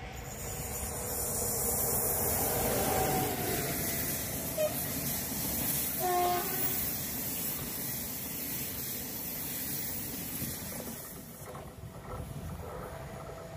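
A railjet passenger train, an electric locomotive hauling a rake of railjet coaches, passing at speed. A rush of wheel and air noise builds over the first two seconds, holds for about ten seconds as the coaches go by, then fades.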